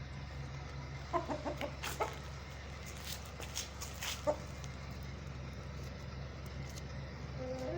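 Chickens clucking in a few short calls, with some sharp clicks or taps in between, over a steady low hum.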